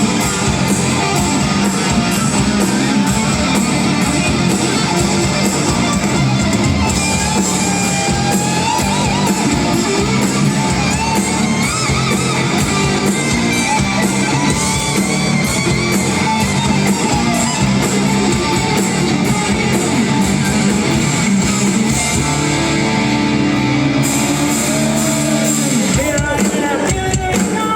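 Hard rock band playing loud and live: distorted electric guitars, bass and drums, with some singing.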